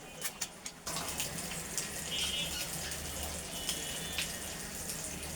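Onion-and-mustard masala gravy with added water boiling in a pan, giving a steady bubbling that sets in about a second in, after a few light clicks.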